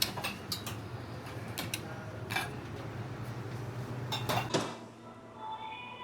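Dishes and cutlery clinking: a series of sharp, irregular clicks and knocks, the loudest cluster about four seconds in, over a steady low hum that drops away shortly after.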